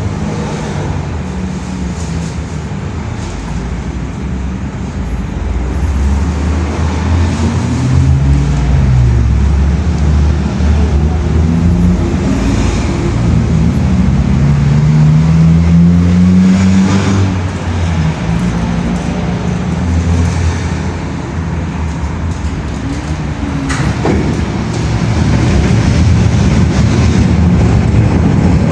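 Road traffic: motor vehicle engines running, their low pitch rising and falling, over steady road noise.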